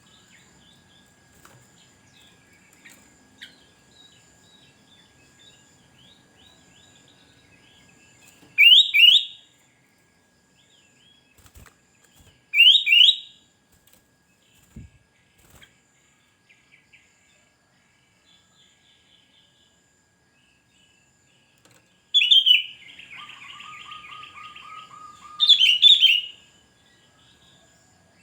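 Sooty-headed bulbul calling: loud, short phrases of quick rising notes, twice about four seconds apart, then a chattering run and another loud phrase near the end, with fainter chirps between.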